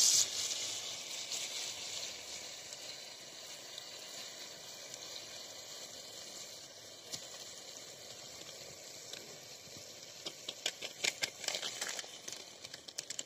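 Chicken and potato pieces frying in a metal kadai over a wood fire, a steady sizzling hiss that eases a little after the first seconds. From about ten seconds in, a run of sharp clicks and crackles.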